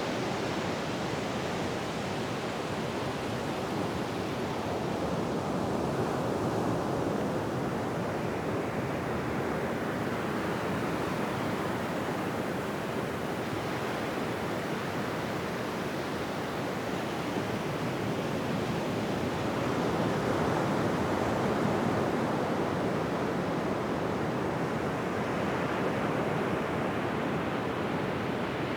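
Ocean surf washing on a beach: a steady rush of waves that swells gently twice, about a quarter of the way in and again about two-thirds through.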